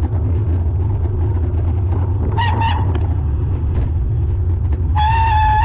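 A vehicle horn sounding over a steady low engine rumble: a short honk about halfway through, then a long, loud blast starting near the end whose pitch slowly rises.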